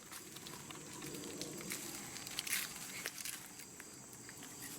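Faint rustling and crackling, with scattered light clicks, like movement through dry brush outdoors.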